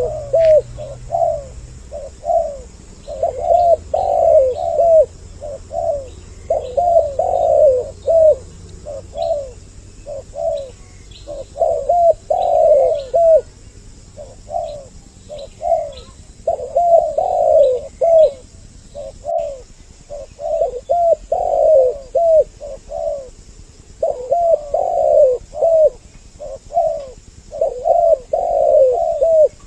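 Spotted doves cooing over and over, short phrases of low coos following one another with hardly a pause, two birds' calls overlapping. Faint high chirps of small birds sound in the background.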